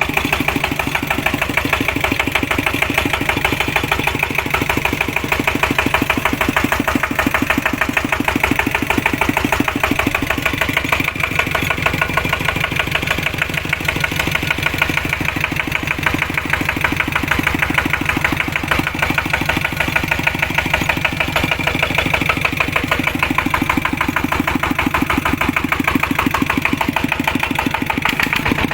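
Kubota walking tractor's single-cylinder diesel engine idling steadily, with an even, rapid chug.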